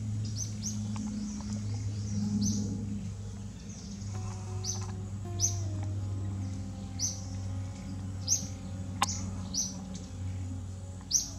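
Small birds chirping, short high chirps repeated every second or so, over a steady low hum. A single sharp click sounds about nine seconds in.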